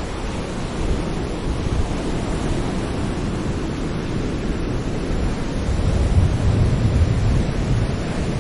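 Sea waves breaking and washing on a shore: a continuous deep rushing surf, swelling a little louder over the last few seconds.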